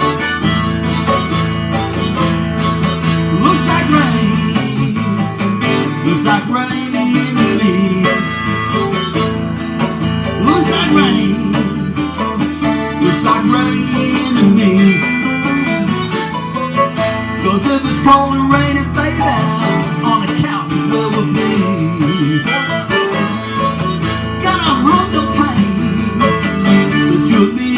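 Instrumental passage on a 12-string acoustic guitar and a 1933 Gibson mandolin, strummed and picked together.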